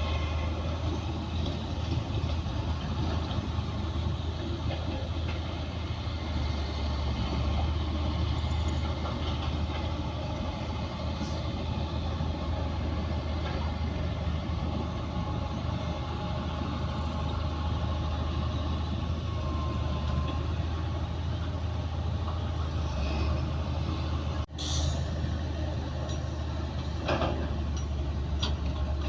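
Crawler bulldozer working: its diesel engine runs steadily with a deep hum under the clatter of the steel tracks. The sound cuts out for an instant near the end, followed by a few sharp metallic clanks.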